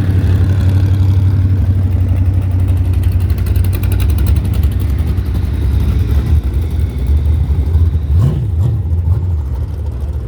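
Banger racing car engines rumbling steadily at low revs, with one engine briefly revving up and dropping back about eight seconds in.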